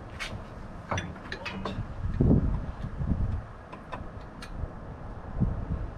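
Metal hand tools clinking and clicking as a wrench is fitted to an engine's crankshaft bolt, with a dull knock about two seconds in and a smaller one near the end.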